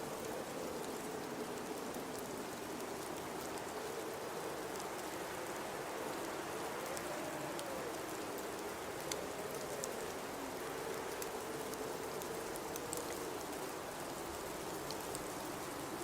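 Blizzard wind howling, a wavering whistle that rises and falls over a steady hiss of wind-driven snow, with faint scattered ticks.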